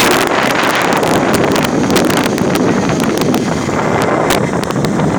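Wind buffeting the microphone over the running noise of a moving vehicle, with scattered short knocks and rattles.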